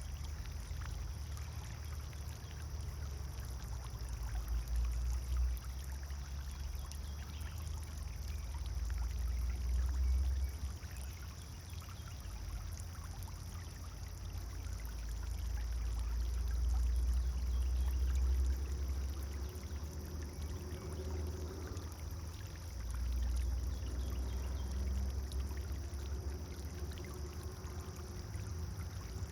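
Pond fountain splashing and trickling steadily into the water, under a low rumble that swells and eases every few seconds.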